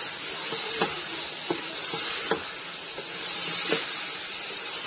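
Chicken pieces and tomatoes sizzling as they fry in oil in a pot, stirred with a wooden spatula that knocks against the pot about four times. The chicken is almost fully fried.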